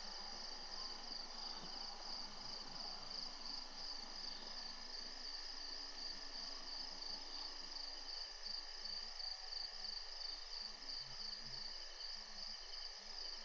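Night insects chirring: a steady, high-pitched trill that goes on without a break.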